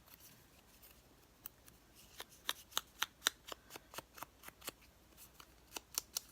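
Scissors snipping paper in quick, short cuts, a run of sharp clicks that begins about a second and a half in.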